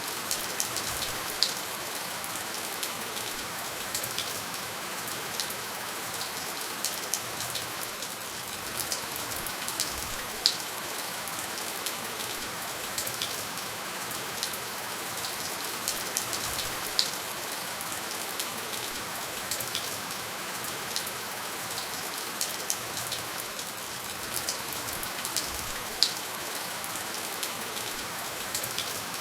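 Steady rainfall: an even hiss of rain with scattered sharp, close drop strikes, no thunder.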